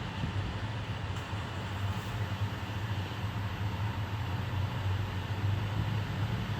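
Vehicle on the move: a steady low engine drone with road noise, unchanging throughout.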